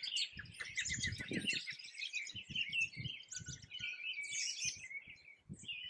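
Many songbirds singing at once in a spring chorus, with dense overlapping chirps and trills. Irregular low rumbles run underneath.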